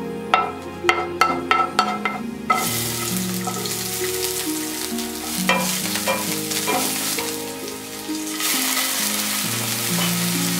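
Garlic, sliced scallions and dried red chilies sizzling in hot oil in a pan while a wooden spatula stirs them. A few sharp clicks come first, then the sizzling starts suddenly about two and a half seconds in and grows louder near the end, over background music.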